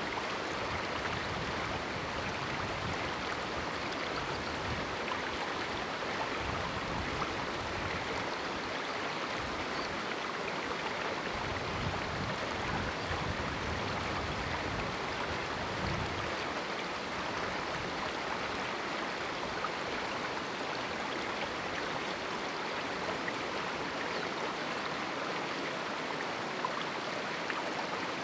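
Small mountain river flowing through a canyon: a steady, continuous rush of running water.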